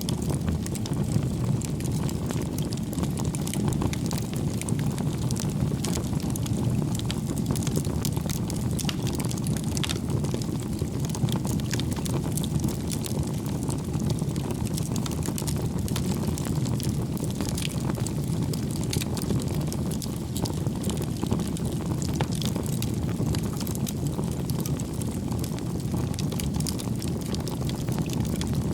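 Wood fire burning in a fireplace: a steady low rumble of flames with frequent small crackles and pops of the burning logs.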